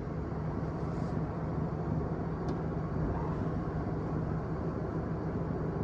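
Ice cream truck's engine running steadily, a low even hum.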